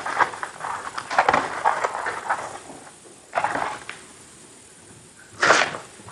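Close-miked crunching and crackling of Oreo cookies being eaten: a dense run of crisp crackles, then two louder single crunches later on.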